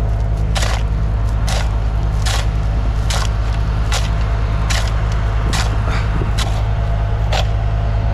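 Bobcat skid-steer loader's engine idling steadily, left running because it may not start again after being shut off. Sharp clicks come across it at uneven intervals, about one every three-quarters of a second.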